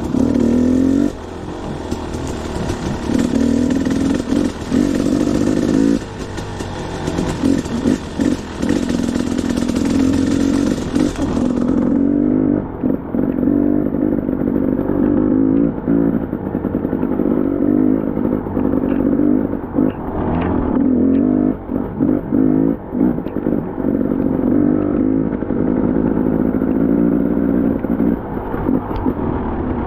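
Two-stroke KTM dirt bike engine on a trail ride, revving up and down with the throttle, with frequent brief drops as the throttle is chopped off and picked up again. A hiss runs over the first twelve seconds and stops.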